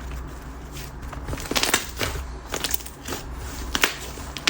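Whip-texture slime with a glossy topper being squeezed and stretched by hand, giving irregular sticky clicks and small pops.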